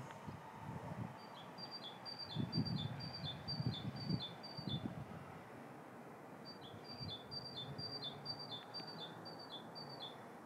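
A small songbird singing two songs, each a quick run of seven or eight repeated two-note phrases, a high note then a lower one, about three a second. Under the first song there is a low, uneven rumble.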